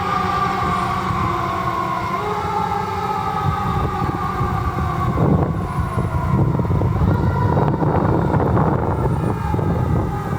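Fire truck responding with its siren sounding: several tones sliding slowly down in pitch and rising again a couple of times, over a steady low engine and road rumble.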